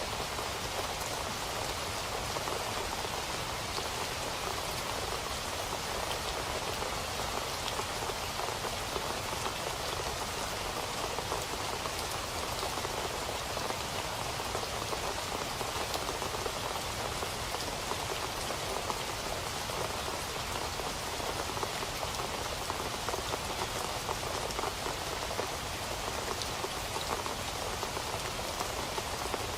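Steady rain falling on a surface: a dense, even patter of many drops with no let-up.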